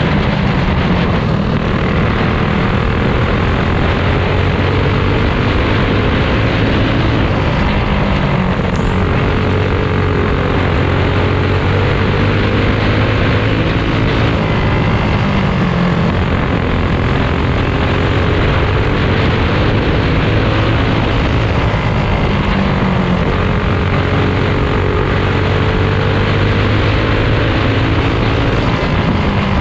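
A pack of dirt-track go-karts racing, their small single-cylinder engines buzzing together without a break, the pitch rising and falling as they go round the track.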